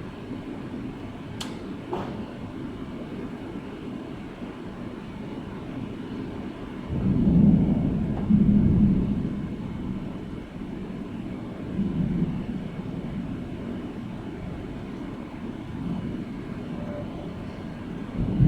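Thunder rumbling over steady rain: a long low roll swells up about seven seconds in and lasts a couple of seconds, with fainter rumbles later on.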